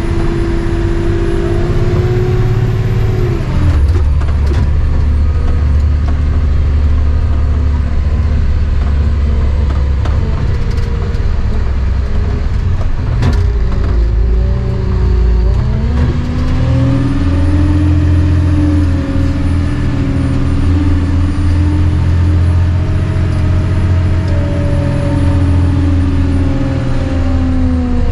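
Diesel engine of a Cat 725 articulated dump truck running under load as it is driven. Its note drops a few seconds in, climbs about halfway through as it revs up and holds there, then falls again near the end.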